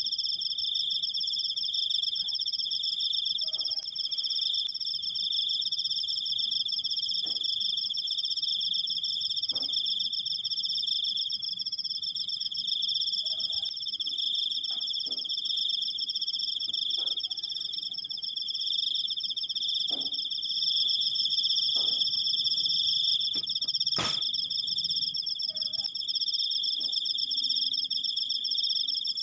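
Crickets chirping in one long unbroken high-pitched trill. A few faint knocks are scattered through it, and there is one sharp click near the end.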